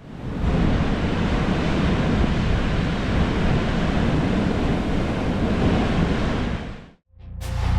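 Steady, even rush of wind and surf noise that cuts off suddenly about seven seconds in, followed by music starting.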